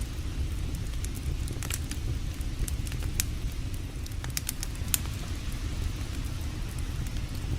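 Wood campfire crackling, with scattered sharp pops a few times a second over a steady low rumble.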